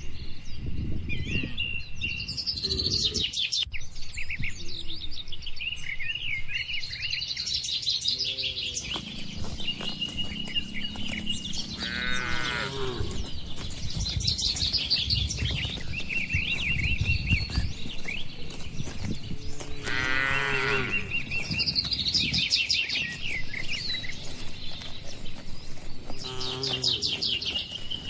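Cattle in a barn pen mooing several times at intervals. Small birds chirp constantly over a steady low background rumble.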